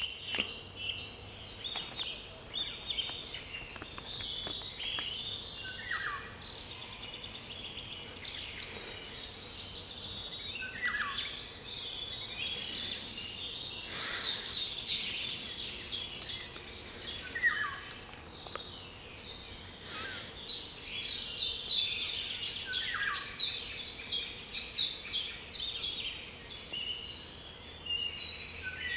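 Mixed chorus of several songbirds singing at once. A short falling whistle comes about every five or six seconds, and fast runs of high repeated notes grow louder in the second half.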